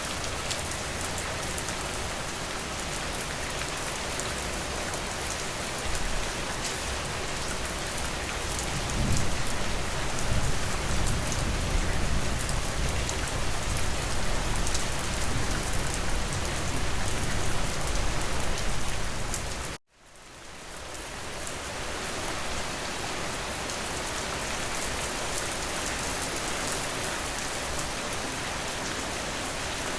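Steady rain falling. A low rumble swells under it for about ten seconds, then the whole sound cuts out abruptly about two-thirds of the way through and fades back in over a couple of seconds, like a loop seam in the recording.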